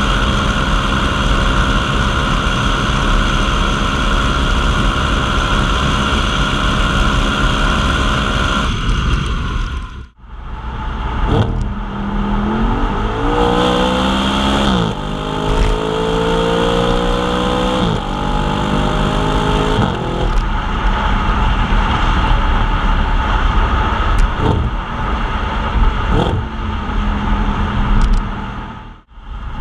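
Audi RS5 engine and stock exhaust running steadily, then accelerating through several gears from about twelve seconds in, the revs climbing and dropping back at each upshift, then settling to a steadier run.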